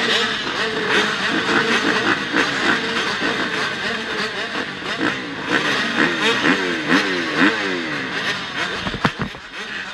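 Several motocross bikes' engines revving together, their pitches rising and falling over one another as the riders open and close the throttle and shift gears. Near the end the engine sound drops away briefly with a short knock.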